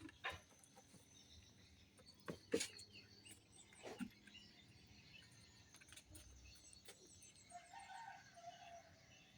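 Near silence broken by a few soft clicks, and about eight seconds in a faint, distant call lasting about a second.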